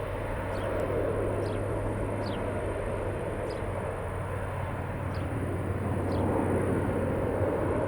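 Jet noise from a departing Airbus A320-232 with IAE V2500 engines climbing away after takeoff, a steady rumble, with short high chirps falling in pitch about once a second.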